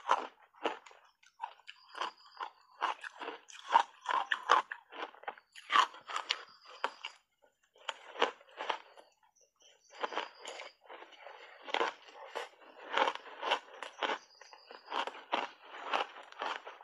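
Close-up biting and chewing of shaved ice dusted with matcha powder: rapid, crisp crunches in quick runs, with brief pauses near the middle.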